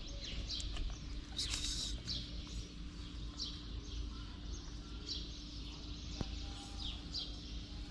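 Small birds chirping in short, high, falling calls repeated every second or so, over a steady low rumble of outdoor street noise and a faint steady hum.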